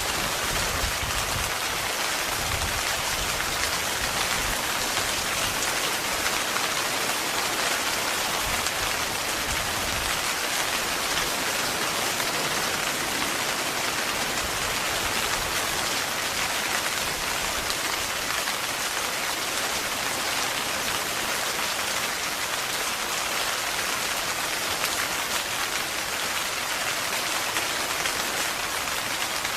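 Heavy, continuous rain falling on a tent, a steady even hiss of drops.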